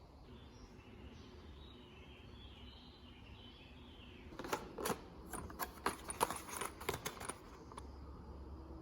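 Faint background hiss, then from about halfway through, some three seconds of quick, sharp clicks and taps of uneven loudness, like small hard objects knocking together.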